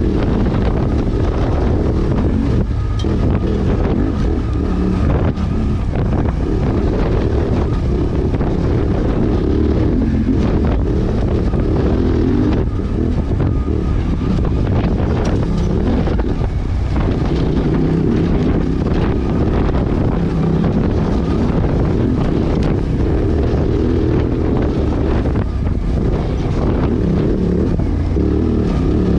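Suzuki V-Strom 800DE's parallel-twin engine running steadily as the motorcycle rides along, with heavy wind noise on the microphone.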